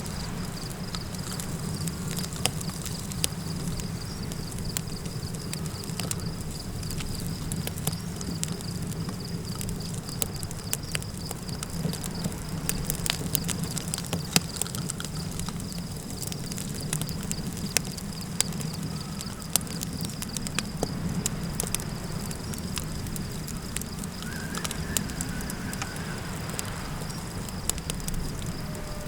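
Campfire crackling with scattered sharp pops over a steady low wind rumble, with a continuous high pulsing insect chirr like crickets. A faint wavering animal call rises and falls for a few seconds near the end.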